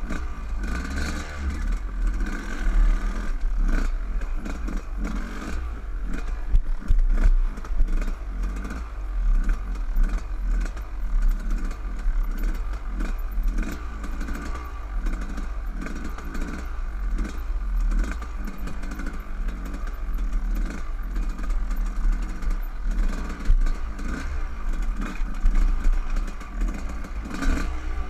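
Dirt bike engine running while being ridden, the throttle opening and closing so the sound swells and dips every second or so.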